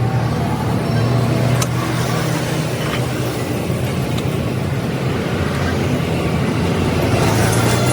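Truck engine running steadily with a constant low hum and road-vehicle noise.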